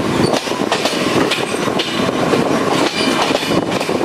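Passenger train coaches running along the track, the wheels clattering over the rails with repeated clacks over a loud steady rumble, heard from an open carriage doorway.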